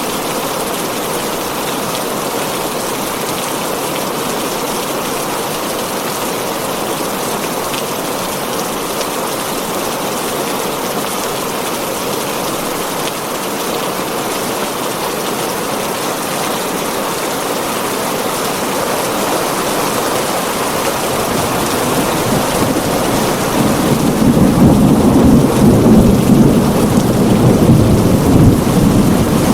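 Heavy rain drumming steadily on a tin roof. Late on, a low rumble of thunder builds and becomes the loudest sound, lasting to the end.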